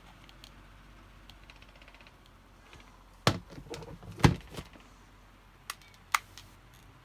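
Handling knocks and clicks during the repair of the box: two loud sharp knocks close together a little before the middle, with light clatter between them, then two lighter clicks near the end.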